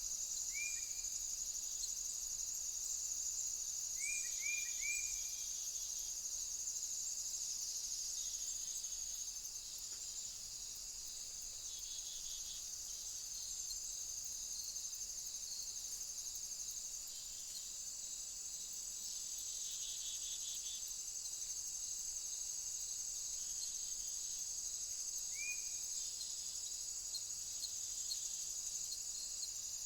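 Steady high-pitched chorus of crickets or bush crickets. A few short chirps sound over it: one near the start, three in quick succession about four seconds in, and one near the end.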